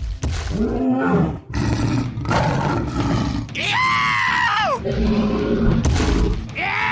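Animal roar sound effects: low growls, then a high wavering cry about four seconds in, and a heavy thud near the end.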